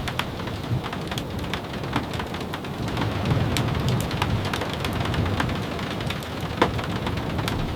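Steady rain with a low rumble underneath, slightly heavier around the middle, and scattered sharp ticks and pops throughout.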